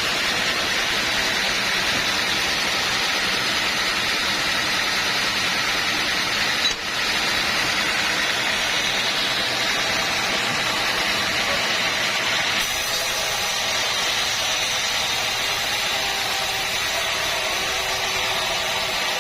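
Sawmill machinery running with a steady hissing drone, its character changing abruptly twice.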